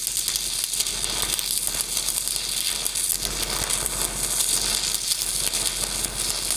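Stick-welding arc crackling and sizzling steadily as a 3/16-inch electrode lays a downhill fill pass on pipe.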